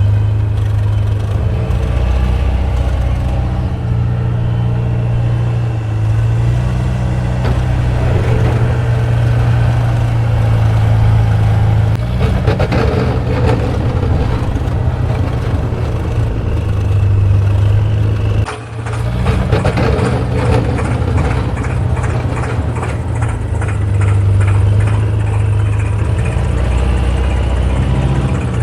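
An engine running steadily with a low, even drone, broken by a brief dip about eighteen seconds in.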